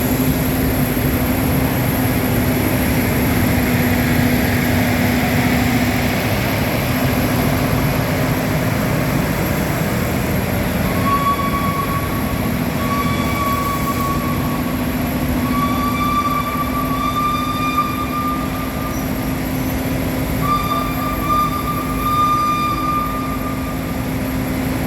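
Steam-hauled train at a station: a steady rushing noise with a low hum underneath. From about halfway through, a high squealing tone sounds in several short stretches.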